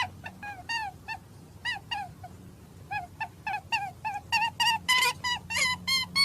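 A bird giving a rapid series of short calls, each rising and falling in pitch, about three a second, with a brief break in the middle.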